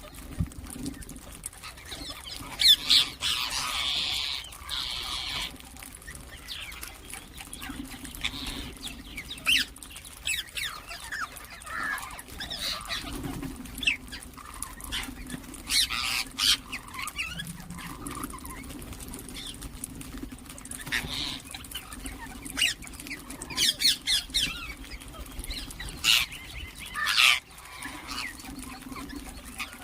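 Ringneck parakeets calling: short, sharp, high squawks and chirps in scattered bursts, loudest about three seconds in and again near the end.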